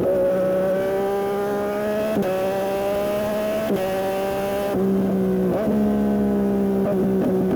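Yamaha MT-09 SP's 890 cc inline-three engine running through a Dominator aftermarket exhaust while riding. Its note climbs slowly with brief breaks about two and three and a half seconds in, then falls slowly through the second half.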